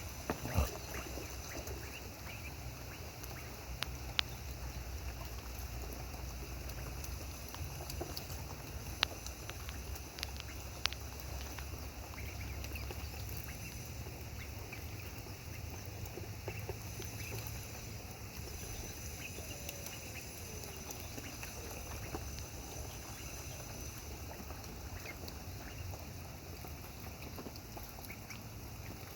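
Domestic ducks quacking and splashing in water, over a steady background hiss, with a few sharp clicks.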